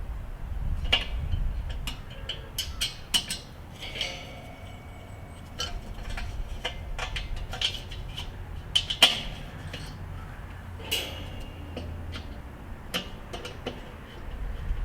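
Small metal parts clicking and clinking against a Weber kettle grill's steel body as a handle is fitted and screwed on. A few knocks ring briefly, the loudest about nine seconds in.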